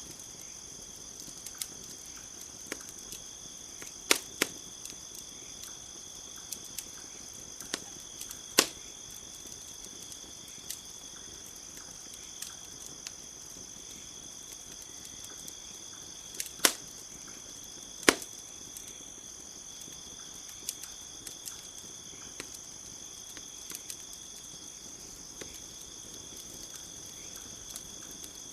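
Wood fire crackling: scattered sharp pops and snaps, four of them much louder, over a steady high chirring of crickets.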